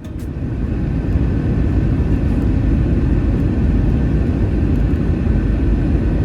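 Steady loud rumble of an Airbus A321's engines and airflow heard inside the passenger cabin, swelling up over the first second and then holding even.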